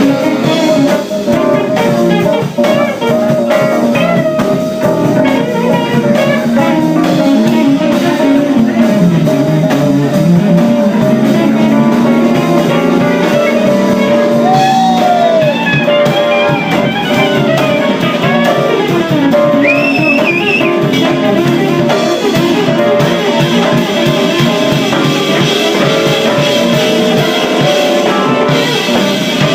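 Live band music with guitar and a drum kit playing steadily, with a few bent, sliding notes in the middle.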